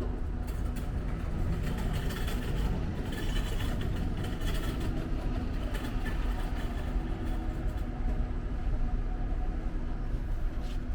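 Steady low rumble of passing street traffic, with a few light clicks and rustles.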